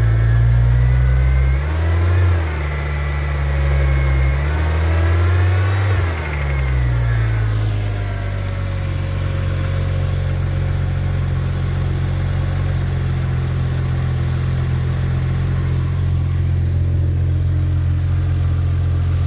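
2002 Porsche Boxster S flat-six, fitted with a MagnaFlow exhaust, revved by hand at the throttle. The pitch rises and falls a few times, then settles to a steady idle about eight seconds in.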